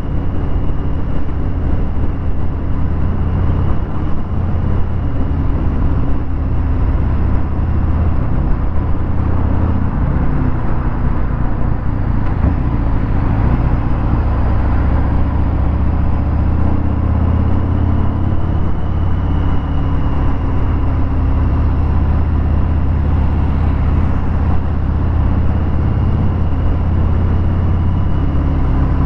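Harley-Davidson Fat Bob 114's Milwaukee-Eight V-twin running under way through a Vance & Hines Hi-Output 2-into-1 exhaust, its note shifting up and down in pitch as the throttle changes.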